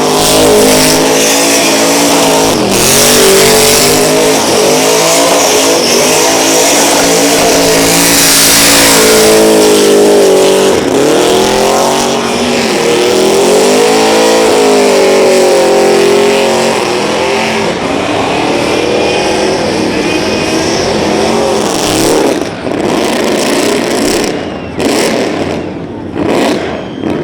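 Burnout car's engine revving hard, its pitch swinging up and down, over the hiss of spinning tyres. It eases after about seventeen seconds and turns to short, choppy blips near the end.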